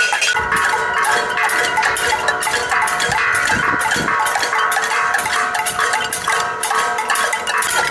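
A crowd banging and rattling metal pots and pans, a loud, dense, continuous clatter of rapid strikes with a metallic ring.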